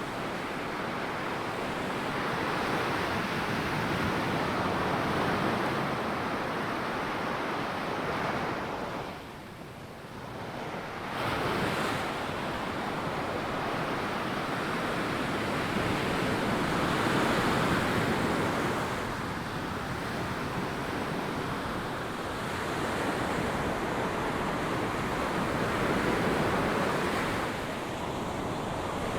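Ocean surf breaking and washing up a sandy beach, swelling and fading in surges every few seconds, with a brief lull about ten seconds in.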